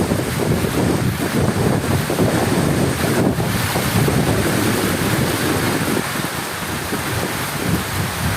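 Heavy rain falling, a continuous dense noise weighted toward the low end, easing slightly near the end.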